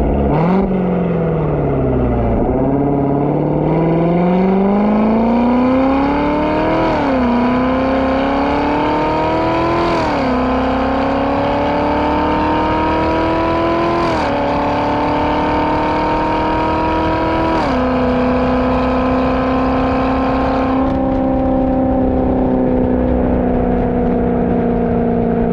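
C7 Corvette Z06's supercharged LT4 V8 through a Corsa Extreme axle-back and X-pipe, pulling hard through the gears. The engine note climbs and drops sharply at four upshifts, then settles into a steady cruise.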